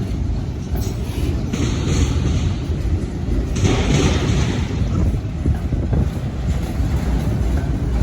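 Railroad train running by: a steady heavy low rumble, with stretches of higher hissing rail noise over it.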